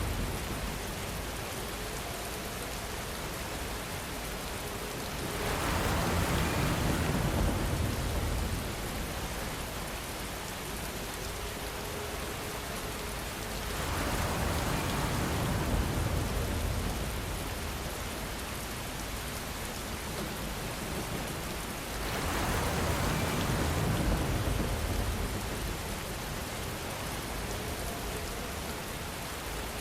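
Steady rainfall, an even hiss of drops that swells heavier and fuller about every eight seconds, three times.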